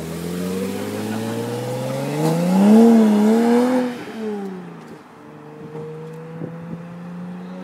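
Car engine accelerating hard, its note climbing steadily to a loud peak about three seconds in, then dropping away over the next second before settling into a lower note that rises slowly again.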